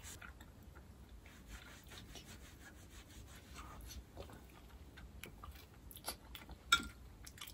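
Quiet chewing and small mouth sounds, with a few light clicks of wooden chopsticks against a ceramic bowl, the sharpest a little before the end.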